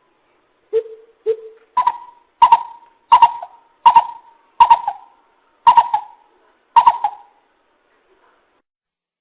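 Greater coucal calling with a series of deep hoots. Two softer, lower notes come first, then about seven louder hoots roughly every 0.7 s, spaced slightly wider toward the end.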